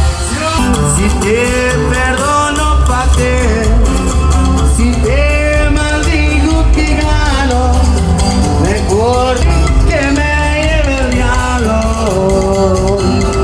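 Regional Mexican band music: a melodic lead line over a steady, heavy bass, with no words sung.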